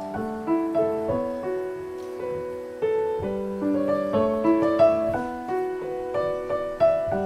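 Background piano music: a flowing run of struck notes that overlap and fade, melody over broken chords.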